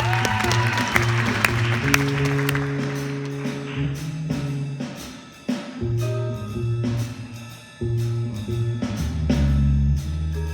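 Live small band playing: bass guitar holding low notes under a drum kit with cymbals, and vibraphone, with two short breaks about halfway and about three-quarters through.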